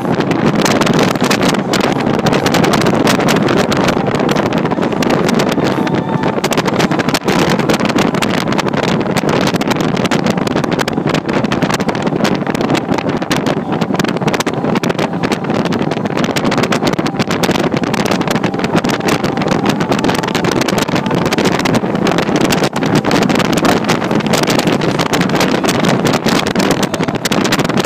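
Loud, steady wind rushing and buffeting against the microphone while riding, with no clear engine note.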